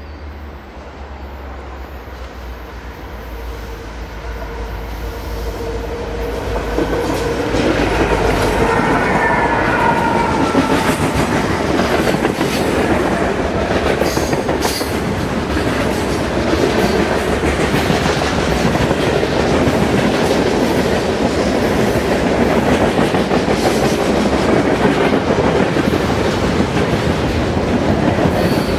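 A train approaching and going by: a low steady engine rumble grows louder over about seven seconds, then gives way to a loud, steady rolling clatter of wheels over the rails.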